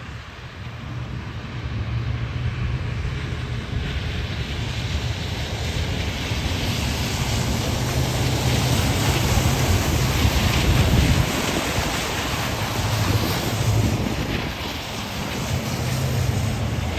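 Vehicles of a long motorcade driving past on a rain-soaked street: a steady hiss of tyres on the wet road that builds over the first few seconds, with wind rumbling on the microphone.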